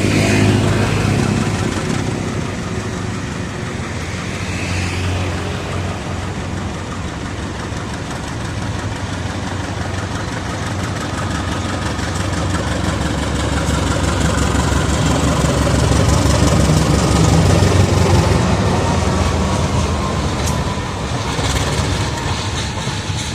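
Diesel engine of a CC 201 diesel-electric locomotive running light on a shunting move, a steady low rumble with rail noise that grows louder, peaks about three-quarters of the way through and then eases off as it passes.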